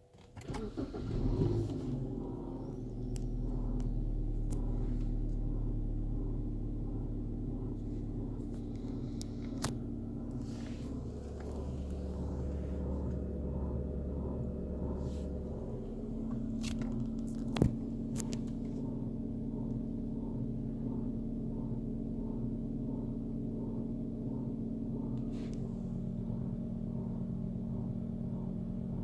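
2007 BMW E90 320i idling, with an odd rhythmic pulsing noise from behind the firewall repeating about twice a second; its pace follows the throttle, and the cause is unknown to the owner. A single sharp click stands out about two-thirds of the way through.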